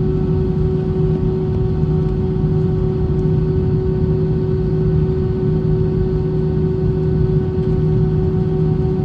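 Airbus A320 cabin noise in flight: steady engine and airflow drone with a constant hum tone over a low rumble.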